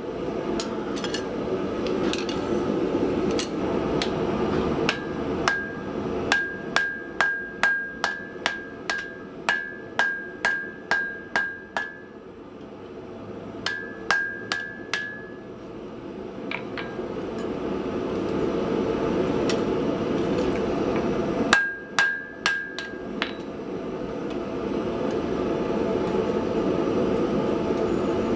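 Hand hammer blows on hot steel over an anvil, each strike ringing. A run of about fifteen blows at roughly two a second comes first, then two shorter bursts of a few blows, all over the steady rush of the forge.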